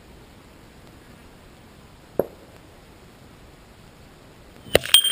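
Rifle fire heard at the target over a steady low hiss: one sharp crack about two seconds in, then near the end two louder cracks in quick succession, followed by a brief ringing tone.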